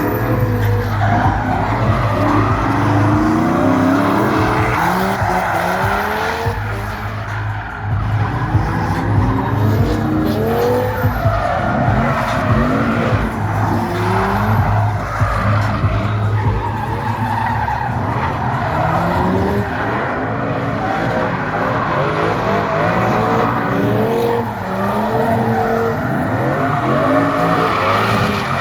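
Drift cars sliding, their engines revving up and falling back again and again, with tyres squealing and skidding on the tarmac.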